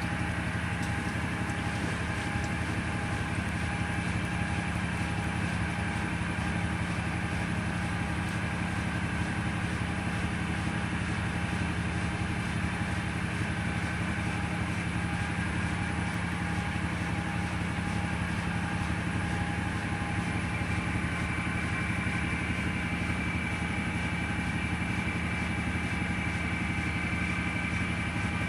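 Simpson 8.5 kg washing machine spinning steadily, a constant motor hum with a high whine over it that grows a little clearer about two-thirds of the way through.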